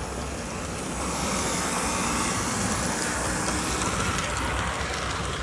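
Model train running along the layout track: a steady rolling and motor whir that swells from about a second in and eases slightly near the end.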